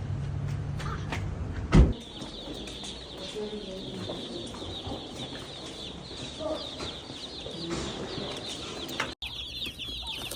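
A brood of day-old Cornish Cross meat chicks peeping, many high quick chirps overlapping without a break, louder near the end. Before it, a low engine hum is cut off about two seconds in by a loud thump.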